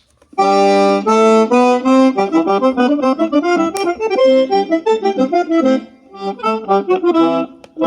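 Grasep D-Y11 portable speaker playing accordion music from a USB flash drive, starting about half a second in, with a brief dip in the tune near six seconds.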